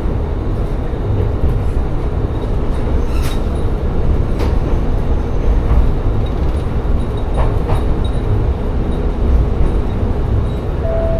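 Tsugaru Railway diesel railcar running along the line, a steady low rumble with a few sharp clicks from the wheels and track.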